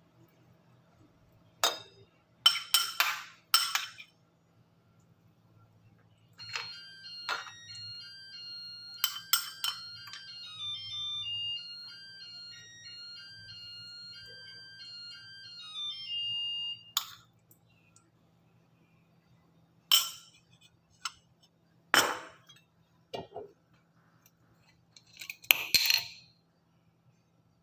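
Kitchen clatter of dishes and utensils: a quick cluster of sharp clinks and knocks, then a few separate clinks later on. In between, a simple electronic melody of clear stepped notes, like a phone ringtone, plays for about ten seconds.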